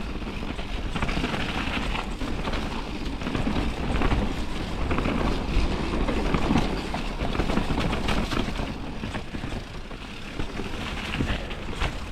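Radon Swoop full-suspension mountain bike descending a wet, rough trail: a steady rush of tyre and wind noise with a low rumble and frequent rattles and knocks from the bike over the ground.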